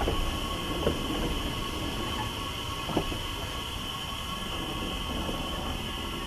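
Narrow-gauge Isle of Man Railway coach rolling slowly into a station, with a steady high squeal from the wheels and a low running rumble. There are two sharp clanks, about a second and three seconds in.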